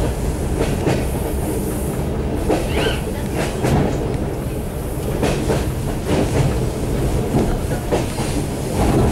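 Suburban passenger train running along the line, heard from inside the carriage: a steady rumble with the wheels clattering over the rail joints.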